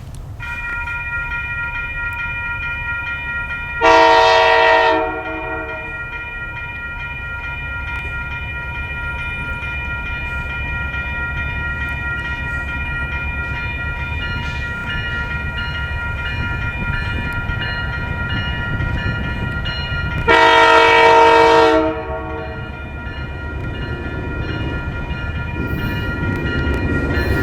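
Canadian Pacific GP20C-ECO diesel locomotive running with a steady low rumble and a steady high whine, sounding its horn twice: a blast of about a second, then a longer one about sixteen seconds later. The sound grows gradually louder toward the end.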